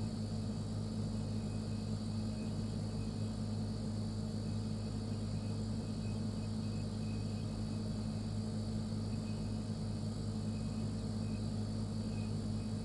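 Refrigerator running, a steady low electrical hum that holds even throughout.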